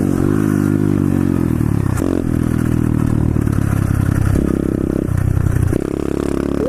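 A pit bike's single-cylinder four-stroke engine running under way as it is ridden over rough trail. The revs rise and fall, climb for a stretch from about four and a half seconds in, then drop near the end, with the rattle of the bike over the ground.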